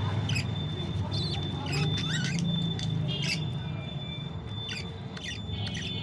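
Pet budgerigars chirping and chattering in a string of short, sharp calls, about a dozen over the few seconds.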